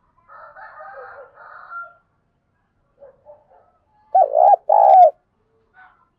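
Spotted dove cooing: a decoy bird kept to call in wild doves. After a stretch of quieter calls, it gives two loud, arching coo notes about four seconds in.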